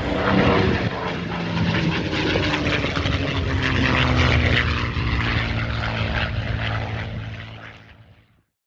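Propeller-driven airplane flying past with its engine running loud, the engine note slowly falling in pitch as it passes. The sound fades out near the end.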